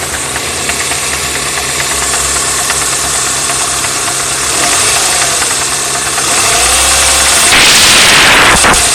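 Chevy Cavalier's 2.2 Ecotec four-cylinder engine running, recorded from under the hood, with the knock its owner is trying to diagnose. A louder rushing noise joins in for about a second near the end.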